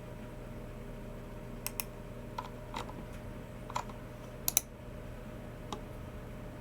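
Slow, scattered keystrokes and clicks on a Logitech MX Keys Mini keyboard and G304 mouse: about eight separate taps, some singly and some in quick pairs, with the loudest pair about halfway through, over a steady low hum.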